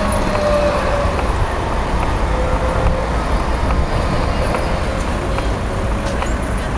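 City street traffic: a steady rumble of road vehicles, with a faint whine that slides slightly lower over the first few seconds.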